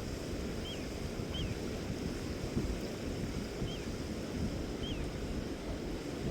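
Wind buffeting the microphone, a steady choppy rumble, with a small bird giving a short high chirp four times.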